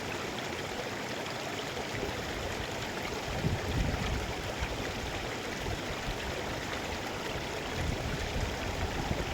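Mountain river flowing, a steady rush of water with a few deeper low swells, the strongest about three and a half seconds in.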